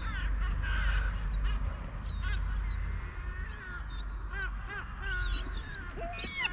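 A group of gulls calling: many short, overlapping cries repeating one after another, over a steady low rumble.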